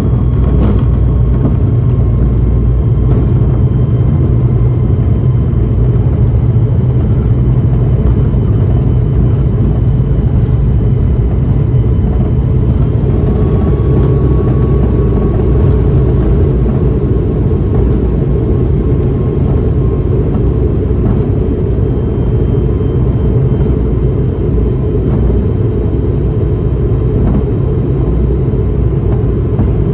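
Cabin noise of an ATR 72-500 turboprop airliner heard from a seat beside the wing: its Pratt & Whitney PW127 engines and propellers make a loud, steady low rumble with faint high whines above it.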